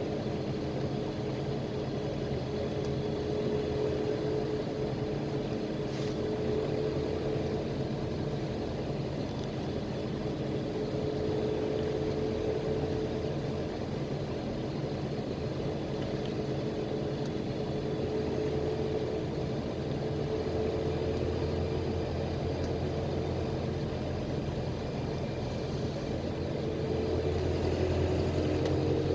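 A PAZ-320405-04 Vector Next bus under way, heard from inside: a steady engine drone with road rumble, the engine note drifting slightly. A single click comes about six seconds in, and the engine grows a little louder near the end.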